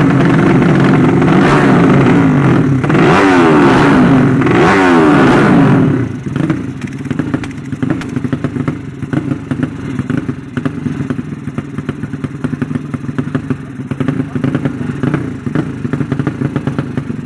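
Drag-racing underbone motorcycles at full throttle, their engine notes rising and sweeping across each other through the gears. About six seconds in the sound drops suddenly to a lower, steadier engine note.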